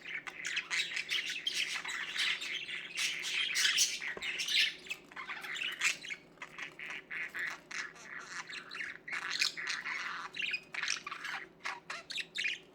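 Pet budgerigars chattering: a continuous, rapid run of short chirps and warbling calls.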